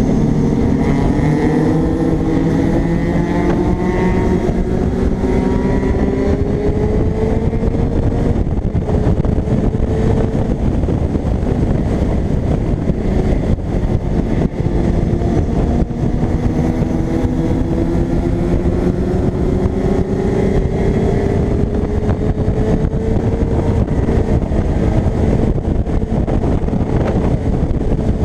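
Kawasaki ZX-6R inline-four sport-bike engine heard from the rider's seat while riding, its pitch climbing slowly under acceleration for about the first eight seconds, dropping back, then climbing again in the second half. Heavy wind rush on the microphone runs beneath it.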